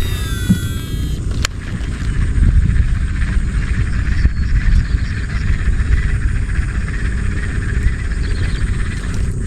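A continuous low rumble with a steady high-pitched chorus of calling animals over it. In the first second a few quick gliding whistles cross each other, and there is a single click shortly after.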